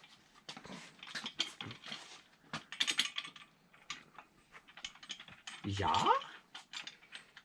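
A ratchet wrench turning a bolt to draw the engine into place: irregular metallic clicks and clinks.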